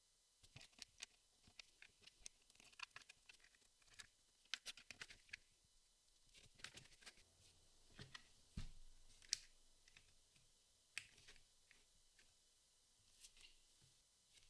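Cardboard jigsaw puzzle pieces being handled on a table: soft, irregular clicks, taps and scratches as pieces are picked up, slid and pressed into place, with one dull thump a little past halfway.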